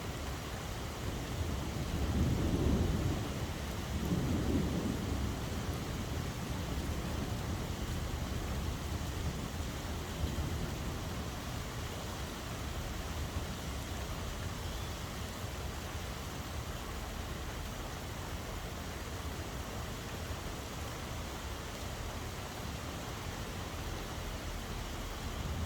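Steady rain falling, with two low rumbles of thunder in the first five seconds.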